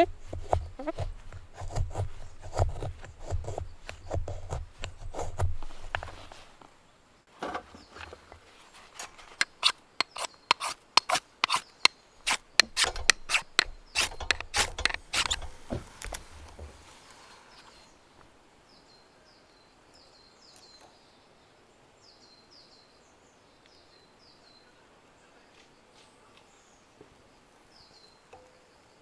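Wood being handled and worked by hand: rubbing and scraping with low thumps, then a run of sharp, regular knocks about twice a second. After that it falls quiet, with faint high chirps.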